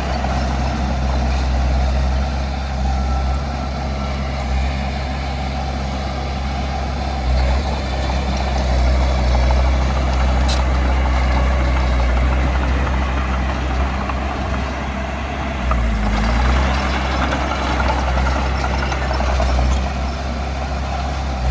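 A heavy diesel engine of earthmoving machinery running steadily under work. About sixteen seconds in, its pitch briefly dips and recovers as the load changes.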